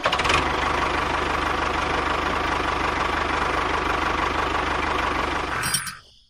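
A small motor running steadily with a fast, even pulsing beat, cutting off abruptly near the end.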